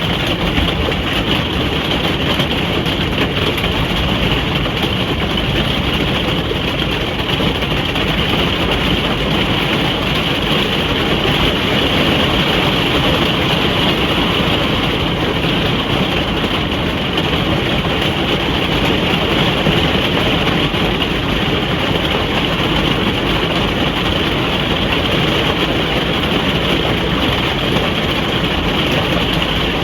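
Steady rain drumming on a caravan roof, heard from inside the caravan as a dense, even hiss.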